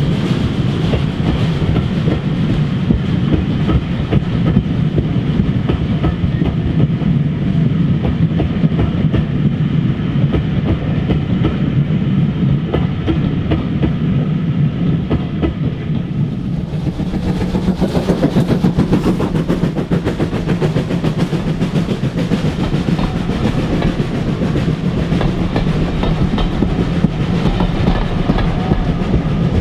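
Steam train running steadily along the track: a continuous clatter of wheels on rail over a low rumble. The sound gets brighter and sharper a little past halfway.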